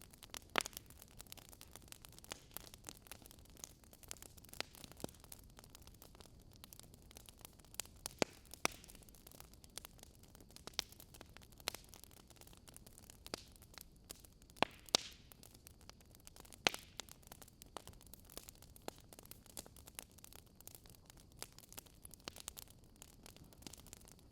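Wood fire burning, crackling with irregular sharp pops and snaps over a low steady hiss.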